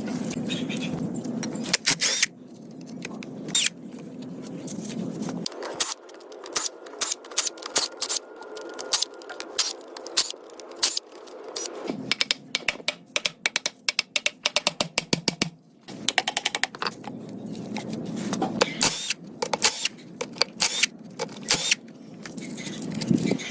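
Clicks and metallic clinks of hand tools working on metal parts, in quick irregular runs, with the background changing abruptly a few times.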